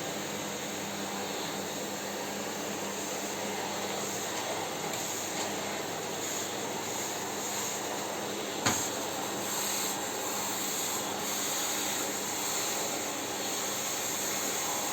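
Electric vacuum cleaner running steadily, with one sharp knock about nine seconds in.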